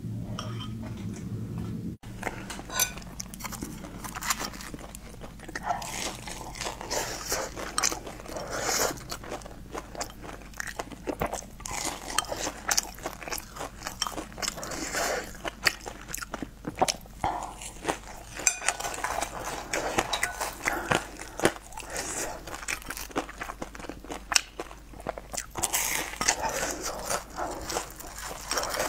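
Close-miked crunching of a crispy deep-fried, crumb-coated patty: repeated irregular crackly bites and chewing that start about two seconds in.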